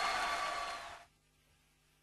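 Audience applauding and cheering at the end of a song, fading out quickly about a second in.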